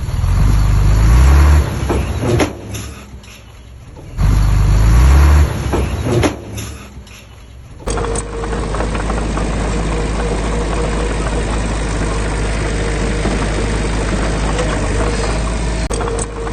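Heavy diesel engine of earthmoving machinery revving up under load twice, then after an abrupt change running steadily with a faint steady whine.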